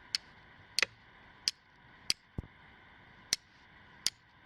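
A hand-forged steel striker struck against a piece of flint in traditional flint-and-steel fire lighting, six sharp metallic clicks at uneven intervals, throwing sparks onto char cloth to catch an ember.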